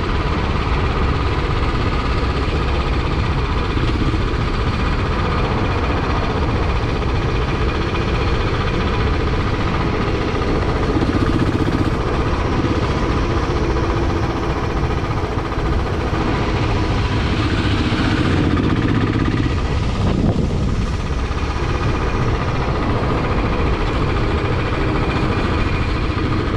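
Royal Enfield Classic 500's single-cylinder engine running steadily, its note changing pitch a couple of times as the revs shift.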